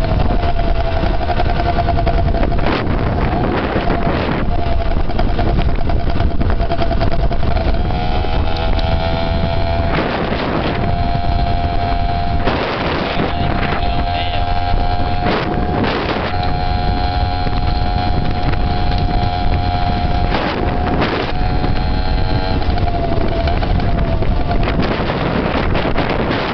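Dirt bike engine running at a steady cruising speed, its pitch dipping slightly near the start and again near the end. Heavy wind buffeting on the microphone comes in gusts.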